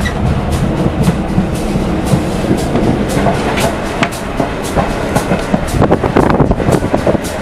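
Railway carriage running along the track, a steady rumble with irregular clicks and clatter from the wheels over the rail joints, heard from inside the coach. Knocks from the phone being handled mix in.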